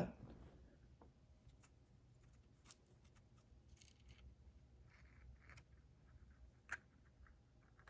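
Near silence with a few faint, scattered small clicks and ticks from handling a gutted padlock's loose pins and parts, with one sharper click near the end.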